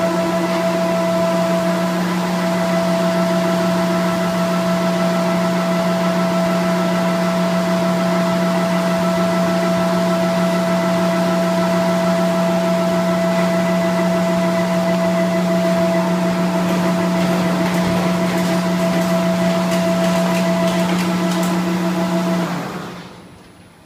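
Folder-gluer box machine running at a steady speed, its drive giving a constant motor hum with a whine above it. Light ticks come in near the end, then the machine winds down and stops.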